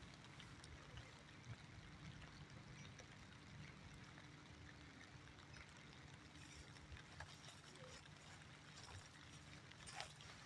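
Faint light rain: a soft, even hiss with scattered small drip ticks, and a sharper tick near the end.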